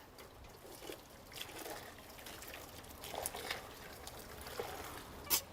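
Faint running tap water with light scraping as the charred skin of a piece of cured pork is rinsed and scraped clean.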